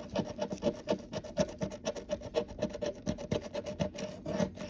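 Scratch-off lottery ticket being scratched in quick, repeated scraping strokes.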